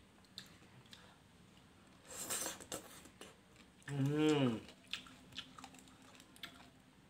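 A person chewing and smacking on a mouthful of papaya salad with chili, with small wet clicks throughout. About two seconds in comes a short hissing sound, and about four seconds in a brief voiced hum that rises and falls in pitch.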